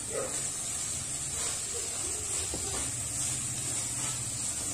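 Steady, gentle sizzle of chopped onion and garlic-ginger-chilli paste frying in a little oil in an aluminium kadhai on low heat while boiled peas are added.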